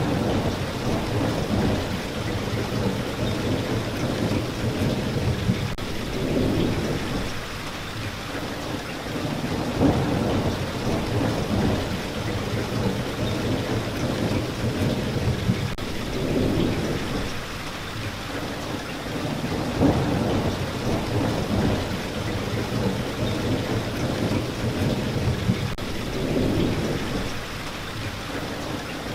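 Steady rain falling, with a low rumble that swells and fades every few seconds.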